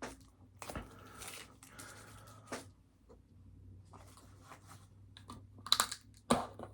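Close-up rustling and crinkling of fast-food packaging being handled, with a couple of sharper clicks or taps near the end.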